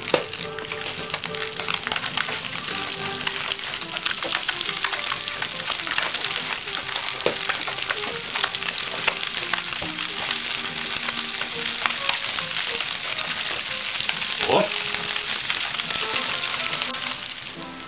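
Breaded pig brain halves frying in hot rapeseed oil in a pan: a steady crackling sizzle, with more pieces being laid into the fat.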